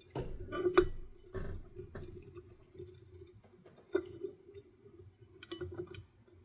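Scattered light clicks and clinks of small parts being handled while fan wiring is tucked into place, the sharpest tick about a second in.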